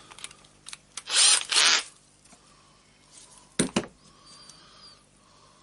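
Small Torx screws being worked on the sander's carbon-brush housing with a screwdriver: two short scraping rasps about a second in, then a sharp click.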